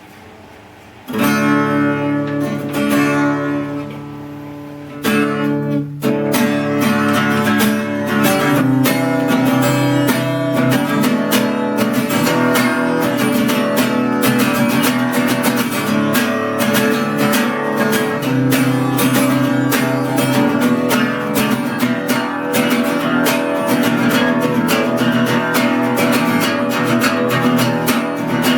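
Acoustic guitar. A chord is struck about a second in and left to ring out, another comes near five seconds, and then steady rhythmic strumming runs on.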